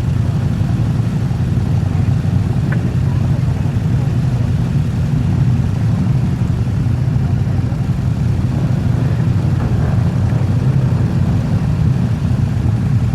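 Many motorcycle engines running together in a steady low rumble.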